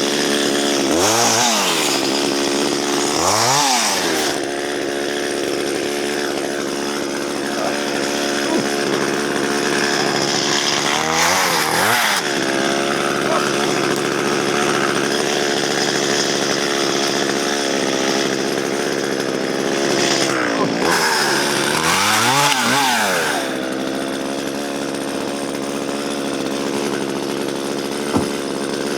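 Two-stroke chainsaw running at high revs, cutting through spruce with a dull chain. The revs drop and climb back several times as the throttle is eased and opened again. There is a single sharp click near the end.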